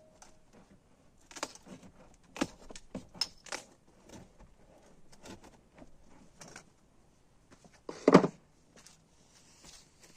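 Scattered clicks and clattering knocks of things being handled, with one loud knock about eight seconds in.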